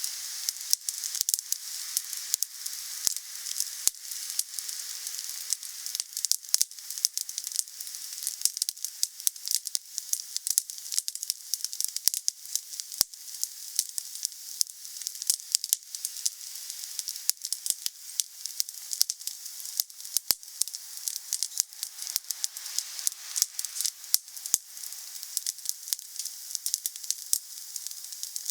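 Wood bonfire burning, with a steady hiss and frequent sharp crackles and pops as the wood burns.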